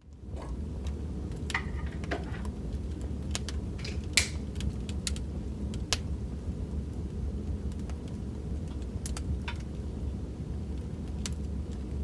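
Wood fire crackling in a fireplace: a steady low rumble with irregular sharp pops and snaps, the loudest about four seconds in. It fades in at the start.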